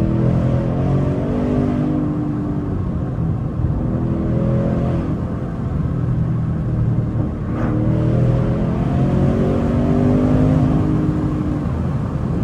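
Ford Mustang GT 5.0-litre V8 running while driving, heard from inside the cabin, with the revs rising and falling. About seven and a half seconds in the pitch drops away and then climbs again. The engine is breathing through high-flow air filters with the intake carbon traps removed.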